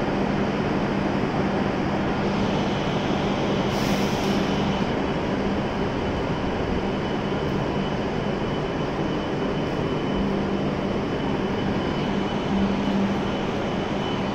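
E7 series Shinkansen standing at the platform with its doors open, its onboard equipment running with a steady hum and a faint high whine. A brief hiss about four seconds in.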